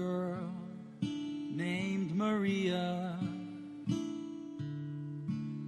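Acoustic guitar playing the instrumental introduction to a ballad, strummed and plucked chords changing about once a second, with a gliding melody line above them.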